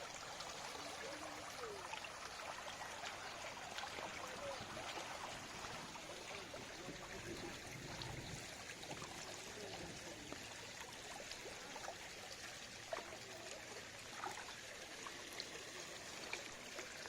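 Water flowing steadily like a small stream or trickle, with a few faint short chirps and ticks over it.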